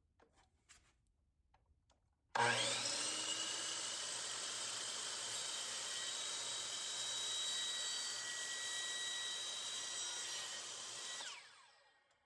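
Electric power saw cutting a length of PVC pipe: the motor starts about two seconds in with a rising whine, runs steadily for about nine seconds, then winds down.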